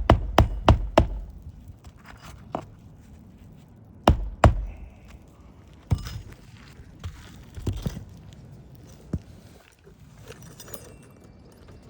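Hammer blows driving roofing nails down into asphalt shingles: a quick run of strikes that stops about a second in, then single, more spaced-out blows.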